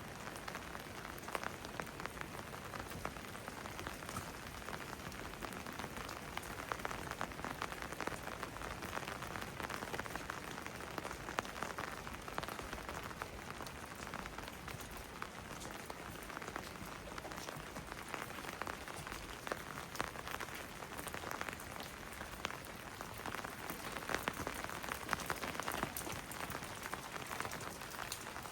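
Steady rain falling, with many sharp individual drops ticking close by throughout.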